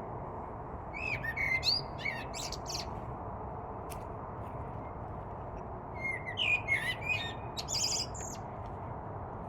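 A songbird singing two short phrases of quick chirps and whistles, the first about a second in and the second about six seconds in, over a steady background hiss.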